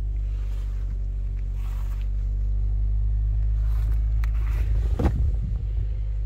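1994 Toyota Carina's engine idling steadily, heard from the open boot, with a sharp knock about five seconds in.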